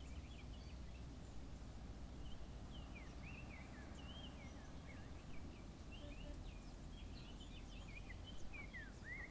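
Small birds chirping over and over in short, quick rising and falling calls, faint over a steady low rumble of outdoor background noise.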